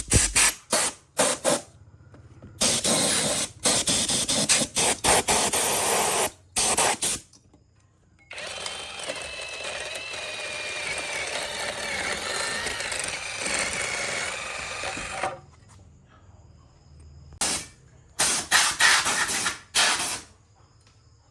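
Short bursts of hissing in quick succession, then a small power tool running for about seven seconds with a wavering whine, then a few more hissing bursts near the end.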